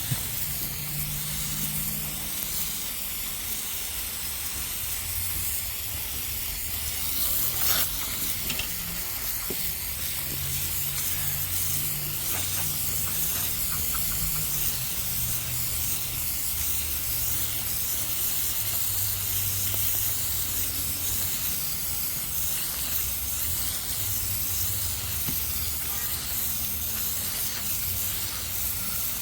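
Tru-Cut sawmill making a long steady cut through a blue pine log: the engine runs under load, shifting slightly in pitch, under a constant hiss of the blade going through the wood.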